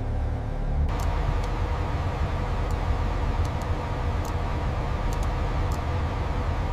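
Steady low mechanical rumble with a few faint, scattered ticks, from lifting machinery hauling a load up. About a second in, the rumble abruptly becomes fuller and noisier.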